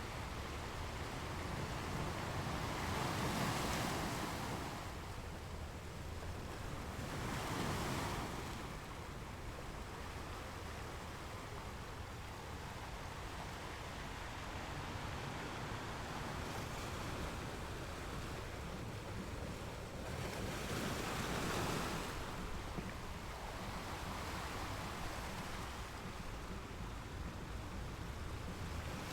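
Ocean surf washing onto a shore: a steady rushing wash of water, with three louder waves breaking, a few seconds in, near eight seconds, and about three-quarters of the way through.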